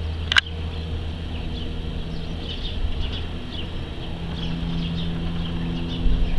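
An engine idling steadily, with birds chirping now and then and a sharp click just after the start.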